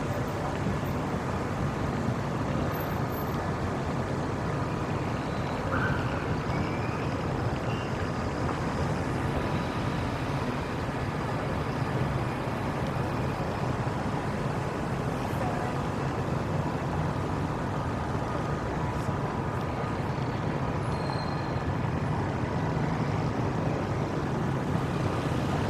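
Steady city street ambience: a continuous wash of road traffic noise with no sudden events.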